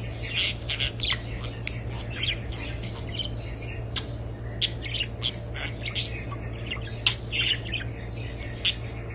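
Small pet parrots (lovebirds and budgerigars) chirping and squawking in quick, overlapping calls, with a few sharp, louder squawks standing out, over a steady low hum.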